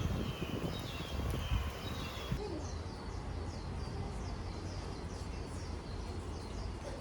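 Birds calling: warbling chirps for the first couple of seconds, then a run of short falling chirps repeating about two to three times a second, over low outdoor background noise.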